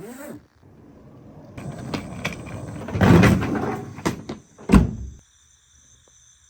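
Rustling and clattering handling noise with several sharp clicks, loudest about three seconds in, ending in one heavy thump just before five seconds; after that it goes quiet apart from a faint steady high hum.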